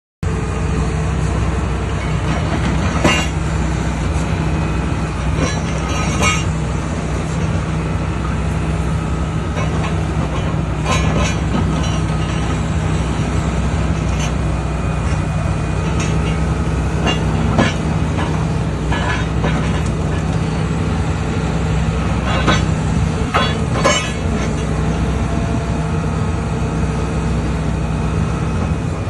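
Excavator's diesel engine running steadily under hydraulic load, with scattered irregular metallic clanks and knocks from the attachment handling material.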